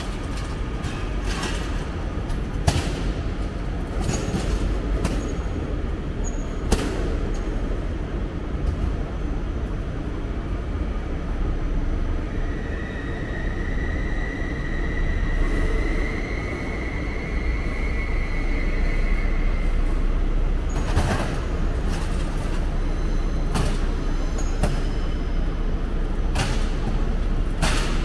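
A train moving through a railway station, a steady low rumble with irregular sharp clacks and knocks. A high squeal holds for several seconds in the middle.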